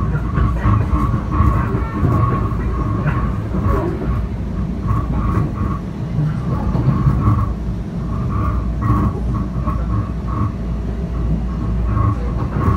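Interior running noise of a Bombardier M7 electric commuter train at speed: a steady low rumble of wheels on rail with a high whine that comes and goes.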